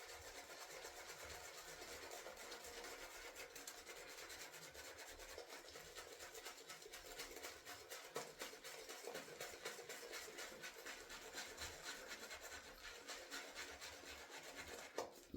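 Mühle 23 mm silvertip synthetic shaving brush working a wet lather of Mitchell's Wool Fat soap, heard as a faint, continuous brushy rubbing made of many quick fine strokes.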